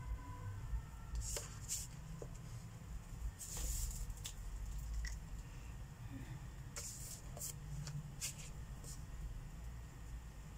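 Marker tips scratching across paper in short coloring strokes, each a brief hiss, with a longer stroke about three and a half seconds in and a quick run of strokes near the end, over a low steady rumble.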